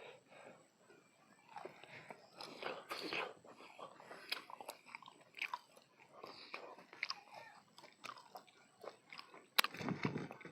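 A person chewing and crunching food close to the microphone, in short irregular crunches. It is loudest about a quarter of the way in and again near the end.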